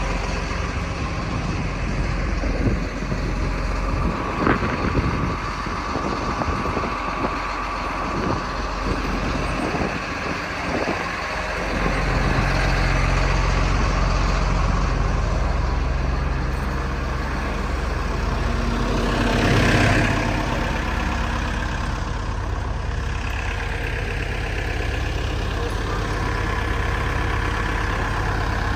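Heavy diesel engine idling steadily, with a few irregular knocks in roughly the first ten seconds and a brief swell about twenty seconds in.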